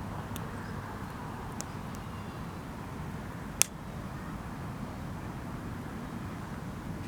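Wood fire burning with a few sharp crackles and one loud pop about three and a half seconds in, over a steady low rumble.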